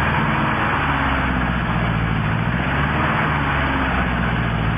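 Heavy truck engine running steadily, a low drone with a slight rise and fall in pitch.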